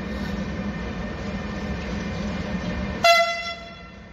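Electric-hauled freight train rolling past with a steady rumble and hum. About three seconds in, a brief loud pitched tone cuts in and fades within a second.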